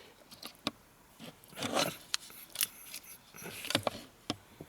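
Small hard parts being handled: scattered light clicks and knocks, with two brief rustling scrapes, one about a second and a half in and one near the end.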